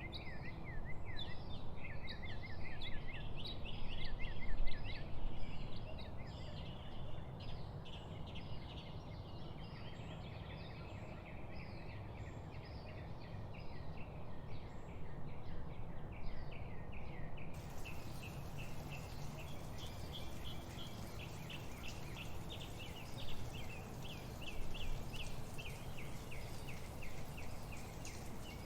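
Several songbirds chirping and trilling in quick repeated notes over a steady background hiss. About two-thirds of the way through, the hiss suddenly turns brighter and the birds' notes become a fast, even run.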